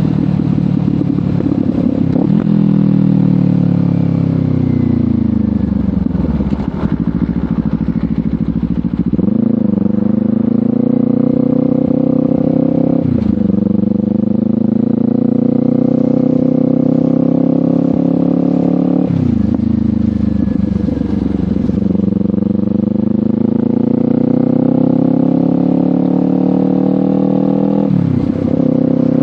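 Kawasaki Ninja 500 parallel-twin engine running through a LeoVince GP Corsa Evo slip-on exhaust while riding. The engine pitch falls and climbs between sudden jumps at about five gear changes.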